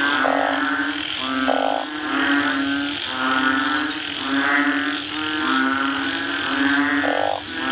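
Frog-like croaking repeating in an even, looping rhythm over a steady low hum.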